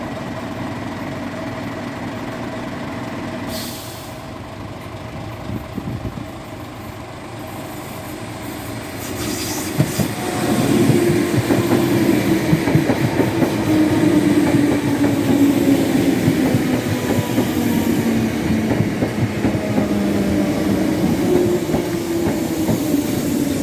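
Electric passenger train running through the level crossing. A steady hum is heard first, then about nine seconds in it grows much louder, with the wheels rattling and clattering over the rails and a ringing, whining tone above.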